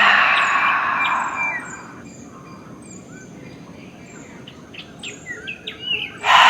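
A deep breath blown out through the mouth, fading away over about two seconds, followed by birds chirping in the background. Near the end another deep breath begins.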